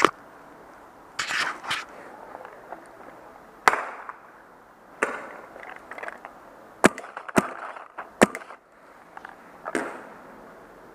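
Paintball markers firing single shots at irregular intervals: about seven sharp pops, a second or more apart.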